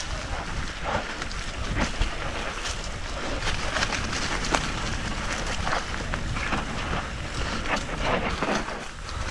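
Wind buffeting the microphone over the rumble of a mountain bike riding a dusty dirt trail, with scattered knocks and rattles from the bike over bumps.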